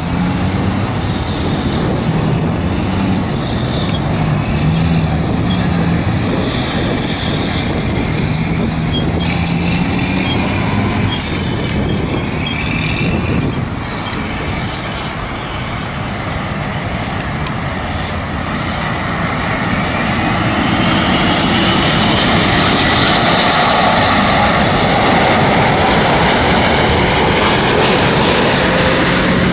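Airbus A380 jet airliner on landing approach: a continuous roar from its engines that swells over the second half, with a high whine running through it. A lower steady hum sits under the noise in the first half.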